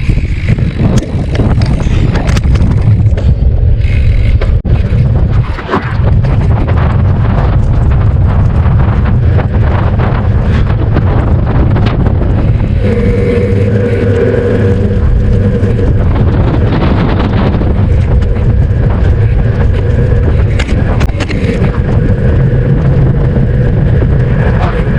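Heavy wind rumble buffeting the microphone outdoors, steady and loud. A faint steady hum comes in about halfway through.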